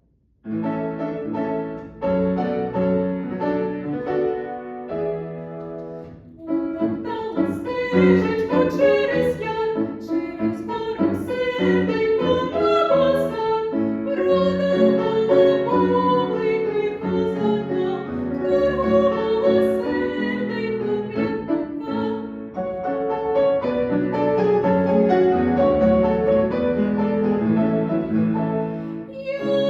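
Ukrainian art song for classical female voice with piano accompaniment. It starts about half a second in, dips briefly around six seconds, then carries on fuller.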